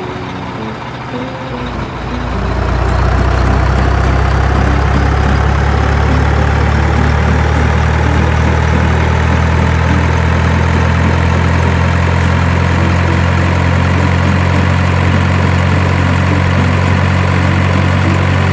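Heavy truck engine running steadily at a low, even pitch, getting loud about two seconds in, with a faint whine that slowly rises in pitch. Short stepped beeps are heard at the start.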